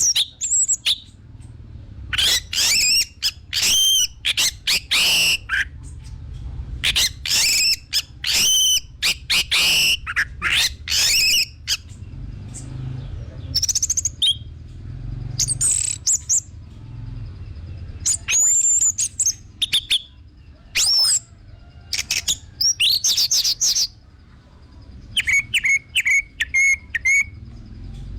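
Orange-headed thrush (anis merah) singing loud, varied phrases of clear whistled and rapid notes, with short pauses between them. Near the end comes a run of about six quick, similar notes. A faint low hum runs underneath.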